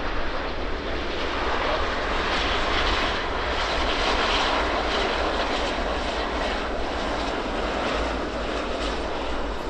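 Jet engines of a Boeing 777-200ER airliner arriving to land, a steady loud rush that swells for a few seconds and then eases slightly.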